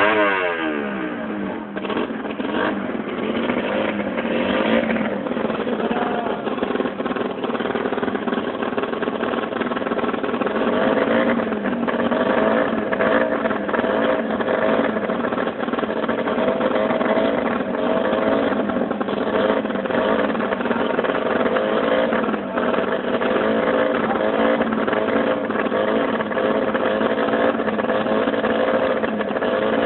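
Several CB-class drag bike engines running and revving, their pitches wavering up and down. Near the start one engine's pitch falls steeply.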